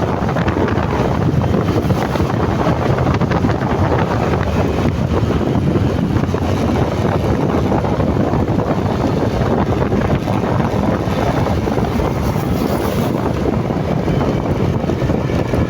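Wind buffeting the microphone of a moving motorcycle, with engine and road noise underneath, loud and steady.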